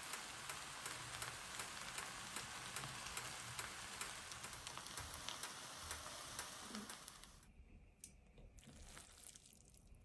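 Stir-fried ramen noodles sizzling in a hot pot, a dense run of fine crackles that drops away suddenly about seven and a half seconds in, leaving only a few faint pops.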